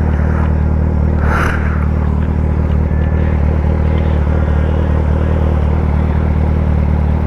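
Kawasaki ZX-10R's inline-four engine idling steadily, with a brief hiss about a second and a half in.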